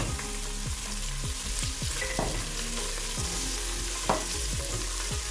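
Onions, garlic and spring onions sizzling in hot oil as they are stirred, with a steady hiss and a couple of sharp clinks of the utensil against the pan, one right at the start and another about four seconds in.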